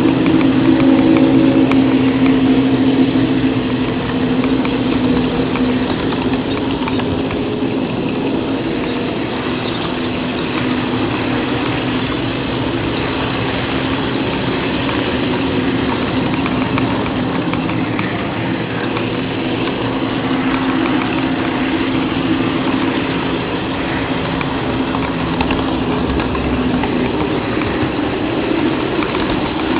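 HO-scale model train running, heard from a camera riding on it: a steady mechanical hum with fine rattling, a little louder in the first few seconds.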